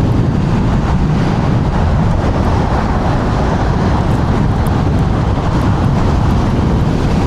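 Wind buffeting a clip-on microphone during a fast electric scooter ride in strong gusty wind: a loud, steady rush heavy in the low end.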